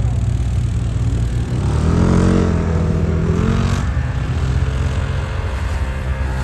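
ATV (quad bike) engine running and revving: the pitch climbs about two seconds in, then eases back down.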